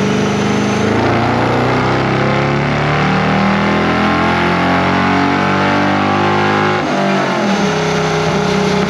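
Vehicle engine held at high revs, its pitch slowly climbing, then dropping sharply about seven seconds in and running on at lower revs.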